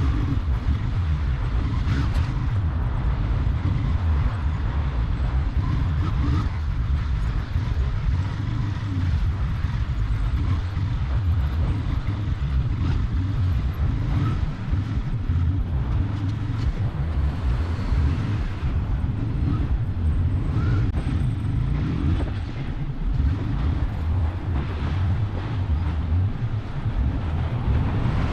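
Motorcycle on the move: a steady engine and road rumble with wind buffeting on the microphone.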